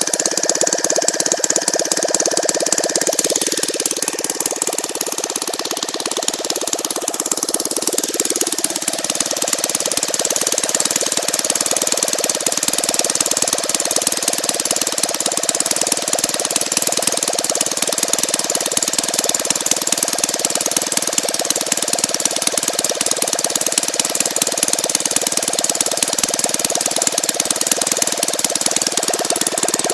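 ASP 160 twin-cylinder model aircraft engine, converted to petrol with CDI spark ignition, running with its propeller turning. Its pitch drops twice in the first nine seconds or so as engine speed comes down, then it runs steadily.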